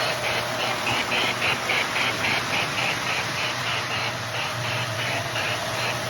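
Lionel 4-8-4 Lackawanna model steam locomotive running, its electronic Mighty Sound of Steam chuffing in an even rhythm of about four chuffs a second over a steady low hum.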